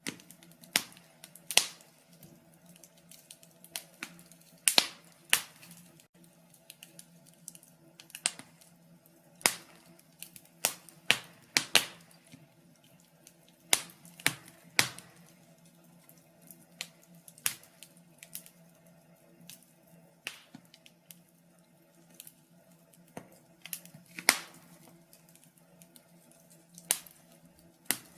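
Wood fire in a fireplace crackling, with sharp irregular pops and snaps at uneven intervals over a faint steady hum.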